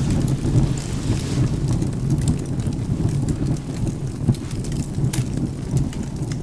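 Steady rain with a low, continuous rumble of thunder, over scattered sharp crackles and pops from a wood fire in a fireplace.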